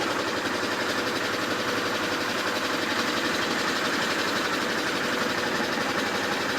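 A fishing boat's engine running steadily at a constant pace, with a fast, even clatter.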